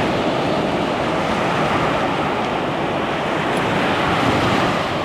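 Ocean surf washing steadily, a continuous rushing noise with no single breaking wave standing out.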